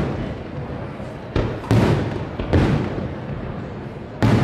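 Aerial firework shells bursting over water: four bangs, two close together about a second and a half in, one near the middle and one near the end, each trailing off in a rolling echo.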